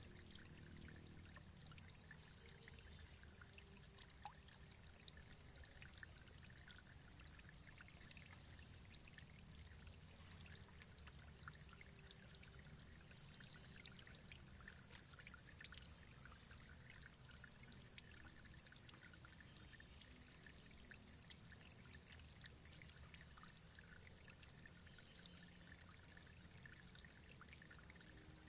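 Faint, steady running water with small ticks and splashes scattered through it, unchanging throughout.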